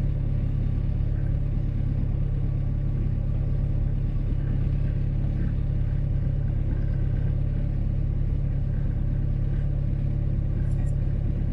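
Boat engine running steadily under way, a constant low drone with no change in speed.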